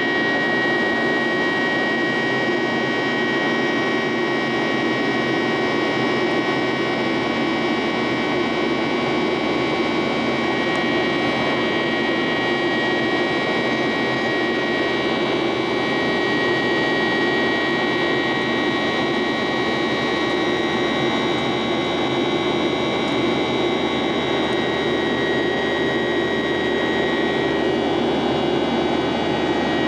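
CFM56-7B jet engines of a Boeing 737-800 heard from inside the cabin in flight: a steady engine roar with a high whine of several unchanging tones over it.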